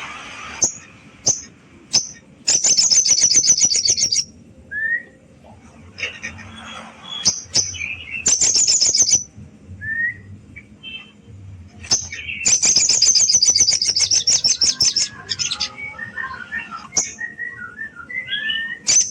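A sogon songbird calling: loud, rapid, high-pitched rattling trills lasting a second or two each, separated by short clipped whistles and chirps. This is a challenge call used to rouse a rival bird.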